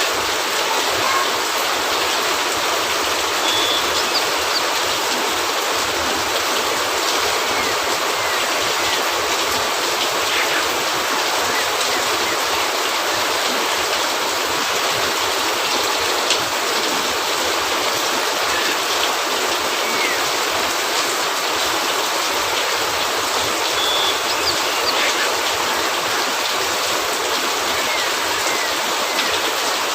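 Steady rain falling on a cabin roof, a dense, even hiss, with a few faint pops from a fireplace.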